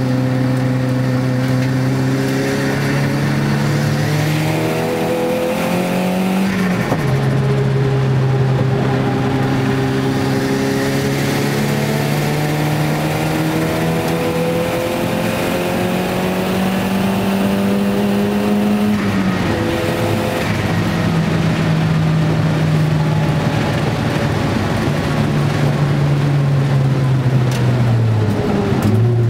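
Nissan Gazelle's turbocharged CA20DET 2.0-litre four-cylinder engine heard from inside the cabin while lapping a race track. The note rises and falls with the throttle, breaks sharply twice as gears change, and falls near the end.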